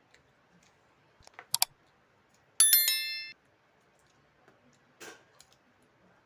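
Tableware at a meal: a few sharp clicks, then a loud metal clink that rings for under a second, and a short crunch about five seconds in.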